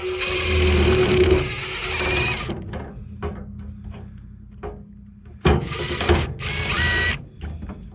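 Power drill-driver run twice in short bursts against a screw whose Phillips recess is coated over, with a steady whine. The first burst lasts about two and a half seconds; the second comes about five and a half seconds in and is shorter. Between them is some lighter metal clatter.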